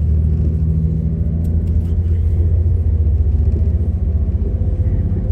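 Passenger train running, heard inside the carriage as a loud, steady low rumble.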